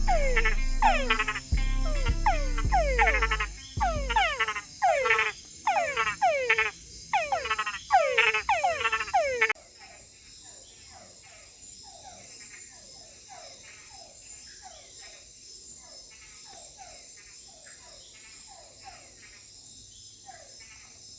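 Chorus of frogs calling: a rapid series of pulsed calls, each sweeping down in pitch, overlapping at about two a second. The calls are loud at first and drop abruptly to a fainter chorus about halfway through.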